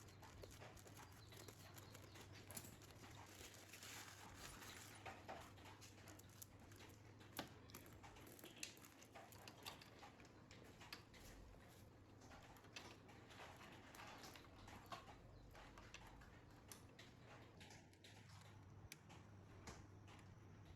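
Near silence: a faint low hum with scattered small clicks and taps.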